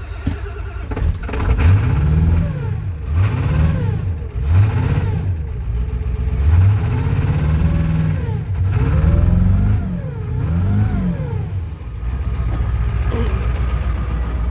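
Ford 7.3 Powerstroke turbo-diesel V8 catching on starting fluid in a cold start with dead glow plugs, then revved up and down repeatedly before settling into a steady idle near the end.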